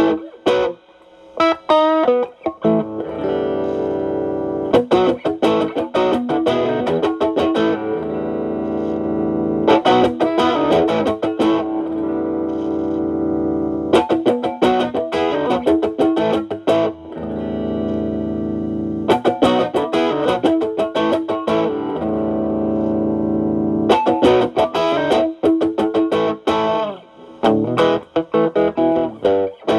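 Electric guitar, a Stratocaster played through an Xotic AC Plus overdrive pedal's Channel B into a Marshall Valvestate amp: overdriven chords left to ring, broken up by quick single-note runs. The pedal's gain is at maximum at first and is turned down to about 3 partway through.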